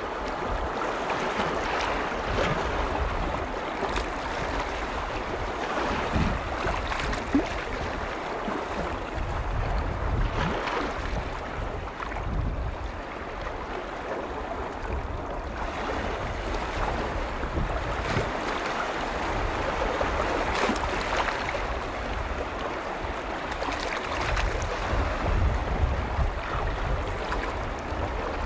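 Small lake waves washing against the shore, swelling and easing every few seconds, with wind buffeting the microphone as a low rumble at times.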